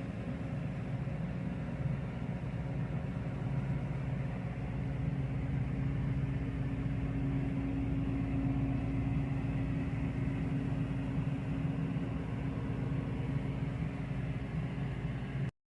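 Willys Jeep CJ-5's engine running at a steady speed, an even low hum that cuts off abruptly near the end.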